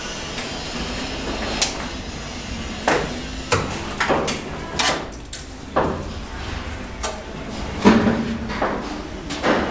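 Masonry hand tool striking repeatedly: about a dozen sharp knocks at irregular intervals of roughly one a second, some ringing briefly.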